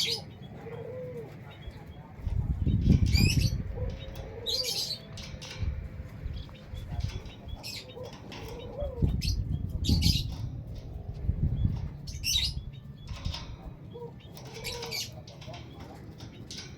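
Small cage birds, a canary and a white-headed munia, fluttering their wings in the cage, with two longer bouts of flapping starting about two seconds in and again about nine seconds in. Short high chirps come again and again in between.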